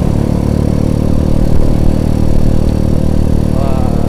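Small underbone motorcycle engine running steadily while riding, heard from the rider's seat over a haze of road and wind noise.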